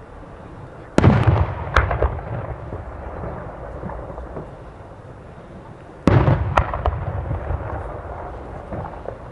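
Aerial firework shells bursting: two loud booms about five seconds apart, each followed by a fading rumble and a smaller pop.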